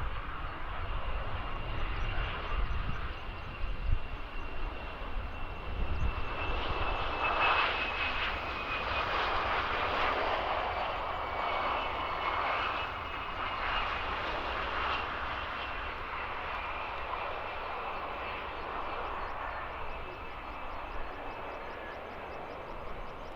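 Jet aircraft engines passing: a rushing noise with a thin high whine swells over several seconds, then slowly fades as the whine drops a little in pitch.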